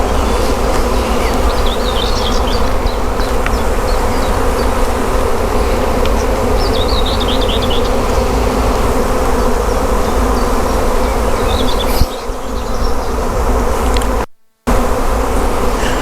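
Honeybee swarm in flight: the loud, steady hum of a great many bees flying all around. The sound cuts out briefly near the end.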